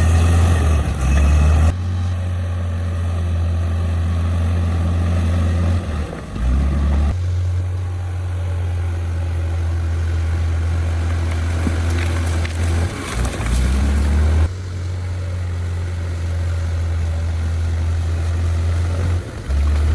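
Bulldozer's heavy diesel engine running with a steady low drone. The sound changes abruptly a few times along the way.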